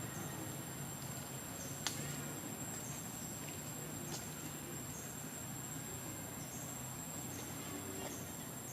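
Insects trilling, one steady high-pitched note; a sharp click comes about two seconds in and a fainter one about four seconds in.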